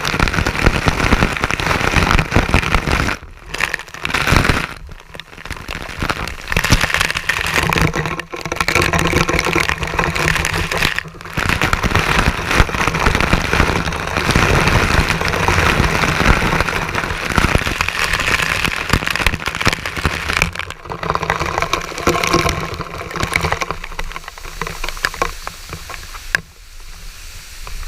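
Water splashing and spattering with a dense crackle and low rumble, with brief drop-outs, quieter near the end.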